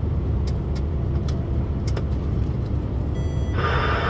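Steady low rumble of a truck on the road, heard from inside the cab, with a few light clicks. About three and a half seconds in, a steady hiss sets in over it.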